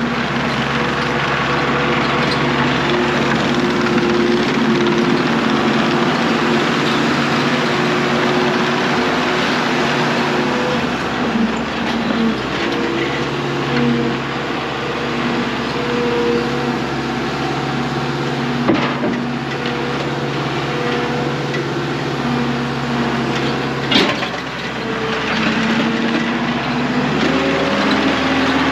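Engine of a working machine running under load, its pitch stepping up and down as it revs. There are a few sharp knocks, the clearest about two-thirds of the way through.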